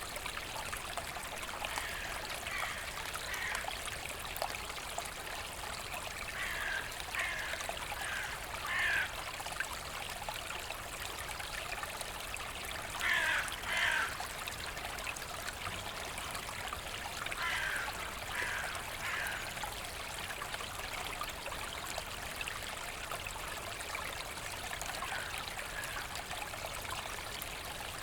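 Forest stream trickling and babbling steadily. A bird calls a few times in short runs of two to four harsh notes, the loudest pair about halfway through.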